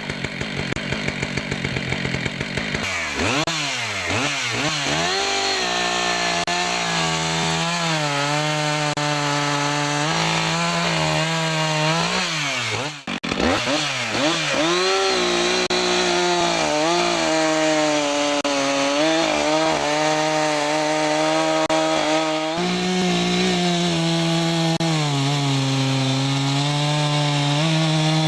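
Husqvarna 575 XPG two-stroke chainsaw, just over 70 cc, idling with an even firing beat for the first few seconds. It is then revved up and down and held at high revs for long stretches, with a brief drop in speed about 13 seconds in.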